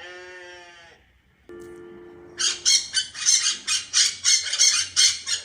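A sheep bleating once, a single steady call lasting about a second. From about two seconds in comes a quick run of high, sharp chirps, about three a second.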